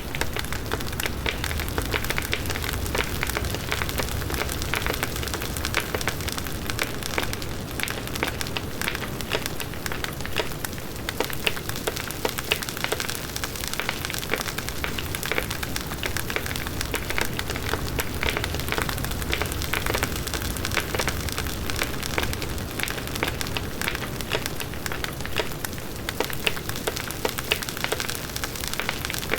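Bonfire of burning wood crackling steadily: dense fine pops and snaps over a low rumble of the flames.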